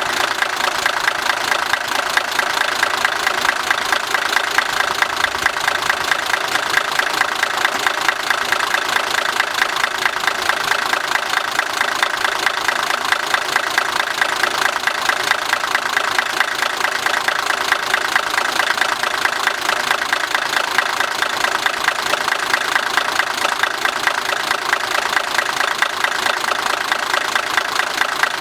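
Diesel engine of the Nanbu Jūkan Railway KiHa 10 railbus KiHa 101 running steadily, with an even, fast knocking pulse and no change in speed.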